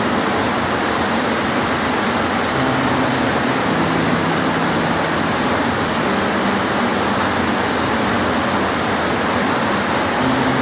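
Steady rain, a dense even hiss with no let-up, with faint low tones coming and going beneath it.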